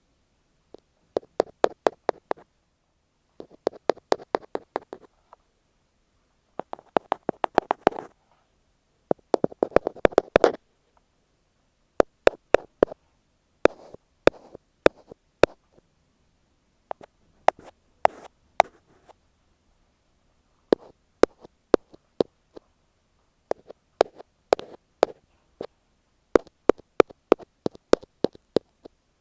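Tapping directly on an earphone microphone: bursts of quick, sharp taps a second or two long, separated by short pauses, with a soft scratching rub in a few of the bursts.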